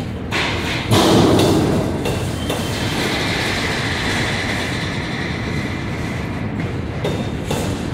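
Double-stack intermodal train's well cars rolling past at close range, their steel wheels rumbling and clicking over the rail joints, with a louder burst of clatter about a second in.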